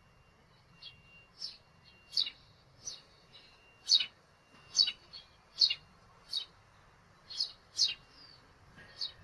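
Sparrows chirping: about a dozen short, sharp chirps at irregular intervals, roughly one or two a second.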